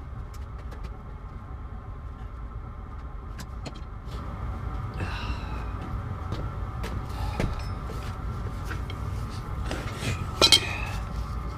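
Steady low rumble of workshop background with scattered light metal clicks from tools being handled, and a sharper metallic clank about ten and a half seconds in.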